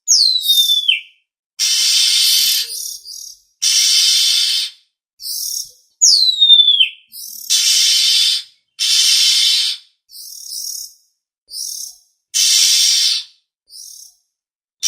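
Oriental magpie-robin (kacer) lure recording: a series of harsh, hissy calls about a second long with short gaps between them. Twice, near the start and about six seconds in, a clear whistle slides steeply downward.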